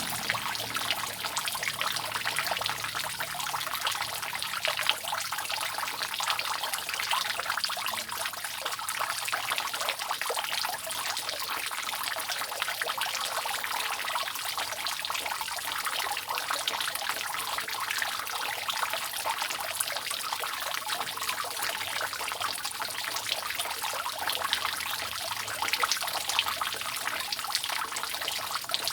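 Water dripping and trickling steadily off a roof in the rain: a dense, unbroken run of many small drops.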